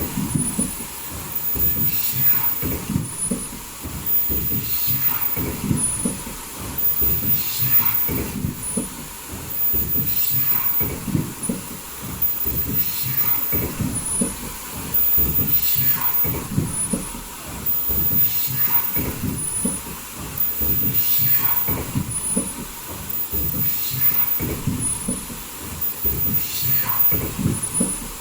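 Automatic foldable mask production line running: a steady mechanical clatter and rumble, with a brief high-pitched whine recurring every two to three seconds as the machine cycles.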